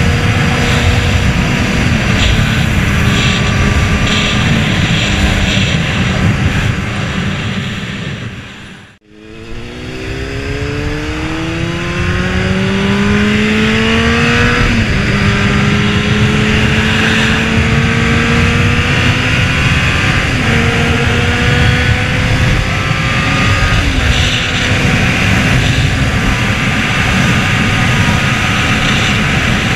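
Honda CBR600RR's inline-four engine running at speed under heavy wind rush. The sound fades out to silence about nine seconds in and fades back up; after that the engine pitch climbs in several long rises, each broken by a short drop at an upshift.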